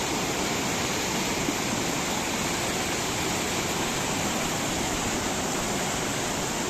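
Fast-flowing mountain river water rushing steadily, an even, unbroken wash of noise.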